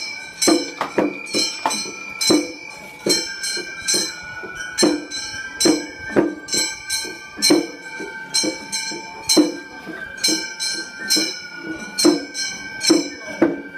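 Gion-bayashi festival music: small brass hand gongs (kane) clanging in a fast steady rhythm while a flute plays long held notes that step between pitches.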